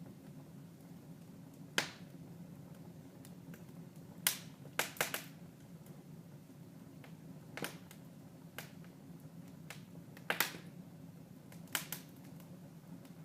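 Wood fire crackling in a fireplace: irregular sharp pops, some coming in quick clusters of two or three, over a steady low background.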